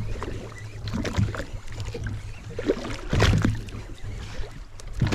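Fishing boat at sea: a steady low engine hum with water slapping and scattered knocks, the loudest splash or knock about three seconds in.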